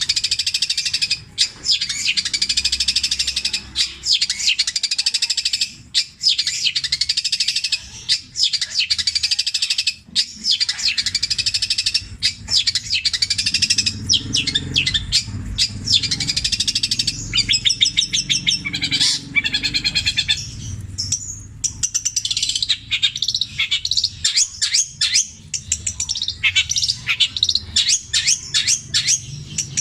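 Long-tailed shrike (cendet) singing continuously: a fast, varied song of chirps and whistles packed with mimicked calls of other birds, with rapid stuttering trills in the middle.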